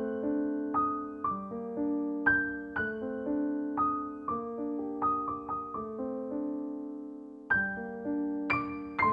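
Background music: a slow, gentle piano melody, notes struck one at a time and left to ring.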